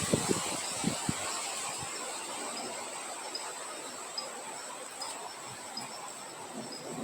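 Wind blowing outdoors, with low gusts buffeting in the first second or so. Under it, insects keep up a steady high trill and a soft chirp repeats about every half second.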